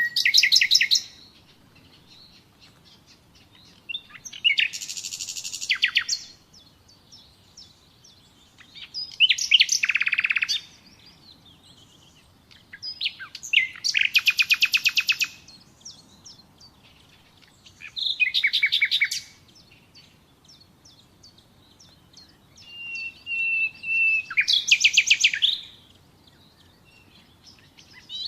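Common nightingale singing: separate phrases of fast repeated notes and trills, one every four to five seconds, with pauses between. Late on, a long steady whistle leads straight into a loud trill.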